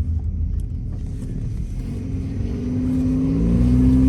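Car engine and road rumble heard from inside the cabin. The engine note rises and grows louder over the last couple of seconds as the car speeds up.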